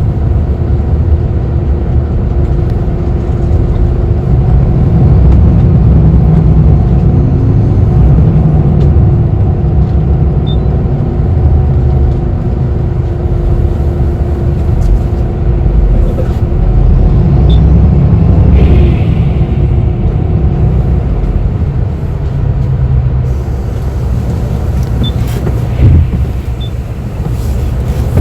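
Interior of a moving city bus: a steady, heavy low rumble of engine and road, with a faint hum that fades out a little past halfway. A short hiss comes soon after, and a single sharp knock near the end.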